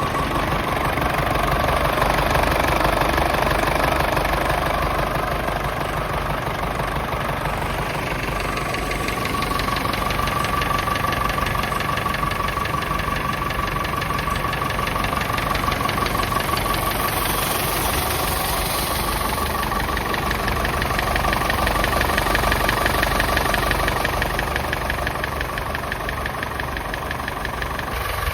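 Nuffield 10/60 tractor's diesel engine idling steadily.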